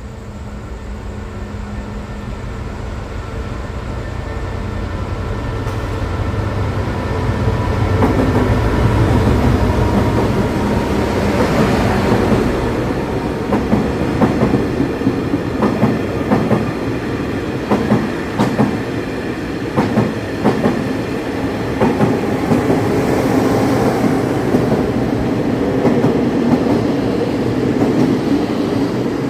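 A diesel train passing close by: its engine's low running note builds to its loudest about 8 to 10 seconds in, then the wheels clack over rail joints in a steady rhythm as the carriages go by.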